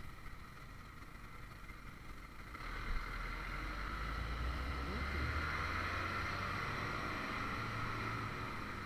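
Honda CBR150R motorcycle engine running while riding, with wind and road noise. The sound grows louder about two and a half seconds in as the bike picks up speed, with a brief knock just after.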